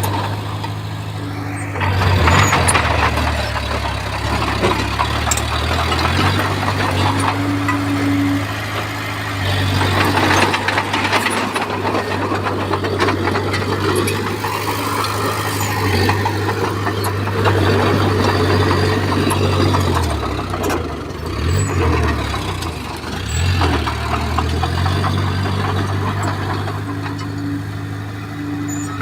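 Komatsu bulldozer's diesel engine working under load, its revs dipping and recovering several times as it pushes, over a rough grinding and clanking of soil and stone being shoved.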